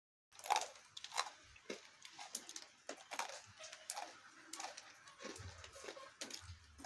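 Chewing and crunching: irregular crisp clicks about once or twice a second, starting suddenly a moment in after dead silence.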